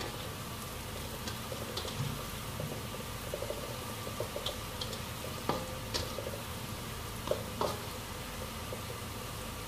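Small pieces of chopped tempe sizzling steadily in hot oil in a wok, stirred with a spatula that scrapes and knocks against the pan a few times in the second half.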